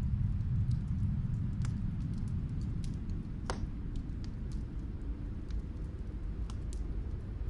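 Steady low rumble of snowstorm wind, with scattered sharp crackles and pops from a wood fire heard from another room, one louder pop about three and a half seconds in.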